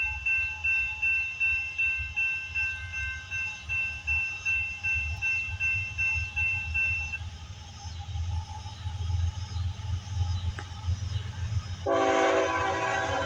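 Grade-crossing warning bell ringing about twice a second over the low rumble of a passing freight train. The bell stops about seven seconds in, and a loud sustained chord of tones starts near the end.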